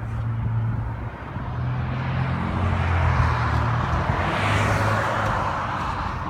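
A motor vehicle running: a steady low engine hum, with a rush of noise that swells and fades about four to five seconds in, like a vehicle passing.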